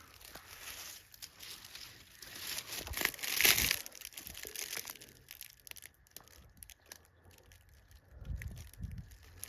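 Irregular rustling and crunching, loudest in a burst about three and a half seconds in, with a few low bumps near the end.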